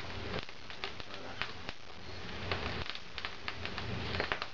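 Wood fire crackling in the firebox of a barbecue fireplace, with irregular sharp pops.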